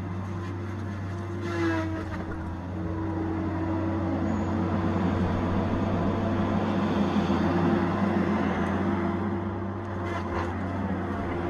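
Tigercat 870C feller buncher's diesel engine running steadily under work, with a brief rise in pitch about a second and a half in. It grows louder from about four seconds in.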